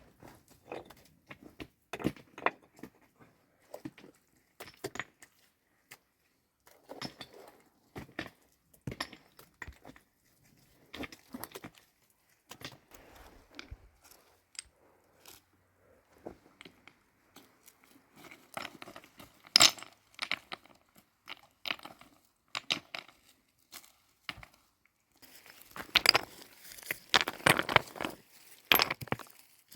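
Irregular clicks and knocks, growing denser and louder near the end.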